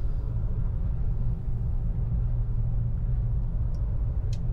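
Steady low rumble of the Frecciarossa 1000 (ETR 400) high-speed train running, heard from inside its onboard toilet cubicle. Two faint clicks come near the end.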